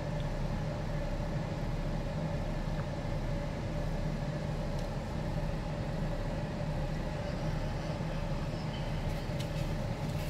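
Steady hum of a car idling, heard from inside the cabin, with a few faint clicks near the end.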